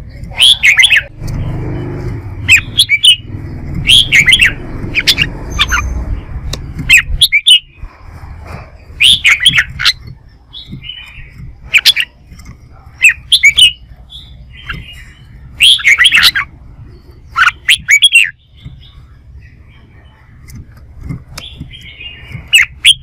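Red-whiskered bulbul singing, short loud whistled phrases repeated every second or two in competitive song. A low rumbling noise runs under the first seven seconds or so.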